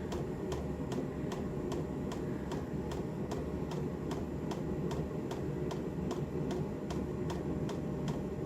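Diesel air heater's fuel dosing pump ticking steadily, about three clicks a second, over the low hum of the heater's fan and burner while it warms up after start-up. The pump knock is heard plainly during firing-up and fades once the heater is running properly.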